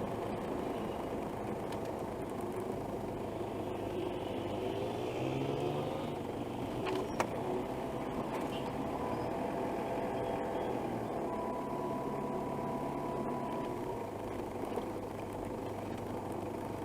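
Motor vehicle engines running steadily, with one engine's pitch rising about five seconds in, and a single sharp knock about seven seconds in.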